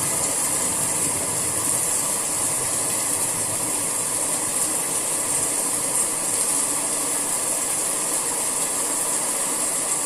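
Steady summer rain falling: an even, unbroken hiss.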